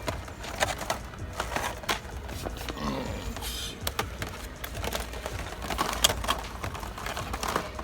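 Irregular light clicks and taps of plastic-packaged diecast toy cars being handled on store pegs.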